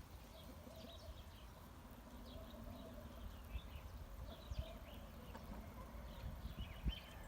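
Free-range village chickens foraging in straw, with short faint high chirps dotted through and a few soft knocks of pecking and scratching, the strongest near the middle and near the end, over a low rumble.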